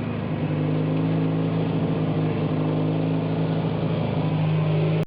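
Tractor engine running at a steady speed, its pitch held even.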